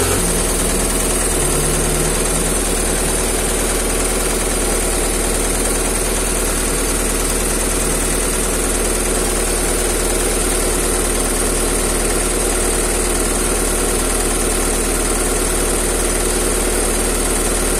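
Car engine idling steadily, heard close up in the engine bay.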